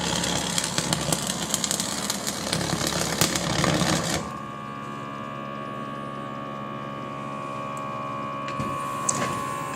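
A loud machine running with a rapid rattle of clicks, which cuts off abruptly about four seconds in, leaving a steady electrical hum.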